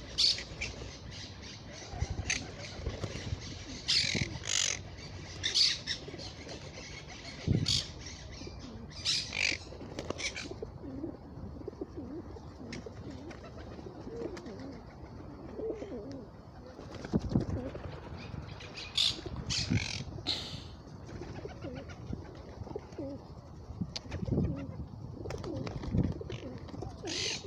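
Birds calling: low cooing runs on and off, broken by about a dozen short, sharp high calls or wing flaps in clusters.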